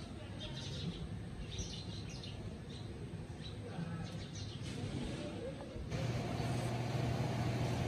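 Small birds chirping now and then over a steady low hum. About six seconds in, the background grows louder, with a stronger steady hum.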